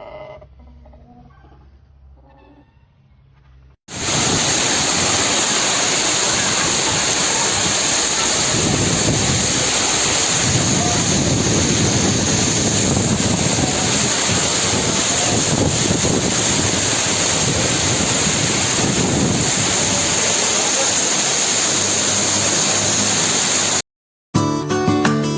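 Heavy rain pouring down in strong wind: a loud, steady rush that starts suddenly about four seconds in and cuts off abruptly near the end, where acoustic guitar music begins.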